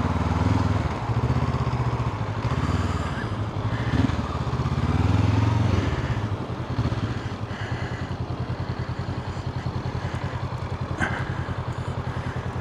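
Honda CL500's 471 cc parallel-twin engine running under light throttle for about six seconds, then dropping back to a lower, steady putter for the rest.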